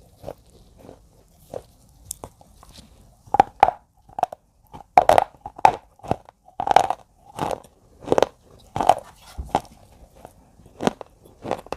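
A series of crunches, roughly one every two-thirds of a second, growing louder about three seconds in.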